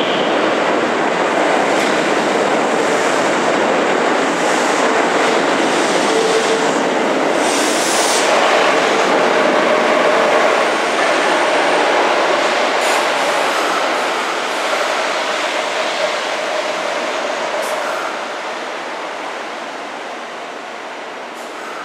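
Kintetsu 2800-series electric train running into an underground station platform, a steady loud rumble of wheels and motors with a faint thin whine, dying down over the last several seconds as the train slows to a stop.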